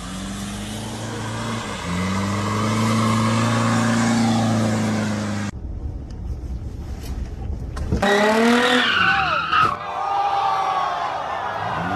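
Car noise in short dashcam clips: a steady low engine and road hum, then about eight seconds in a burst of tyres squealing with wavering high pitched squeals.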